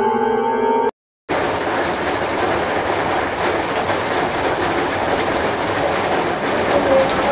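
A held musical tone cuts off about a second in, and after a brief silence heavy rain comes in, pouring steadily as a dense, even hiss.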